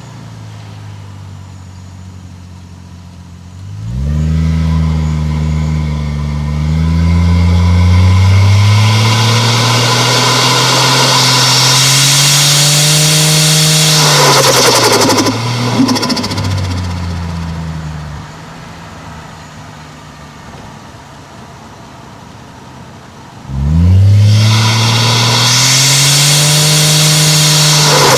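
Toyota 1JZ-GTE turbocharged inline-six running under load: after a few seconds of light running it accelerates hard, the engine note rising, then lifts off with a brief hissing turbo flutter and the note falls away to quiet cruising. Near the end it pulls hard again, the pitch climbing.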